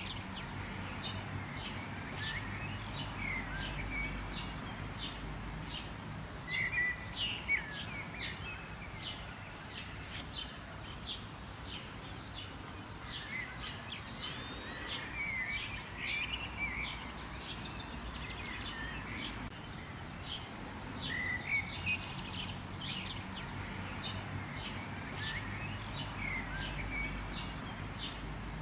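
Several small birds chirping and twittering at once, with quick short chirps and a few sliding whistled notes throughout, over a steady low rumble.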